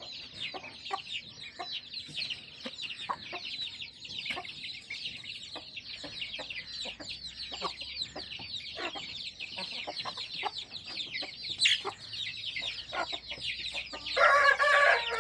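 Poultry yard: dense, continuous high chirping with scattered clucks, and a louder call from a chicken starting near the end.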